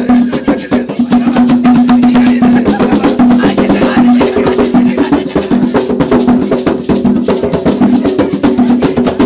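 Umbanda ritual music: fast, steady hand-drumming and shaken rattles under sustained sung or held tones.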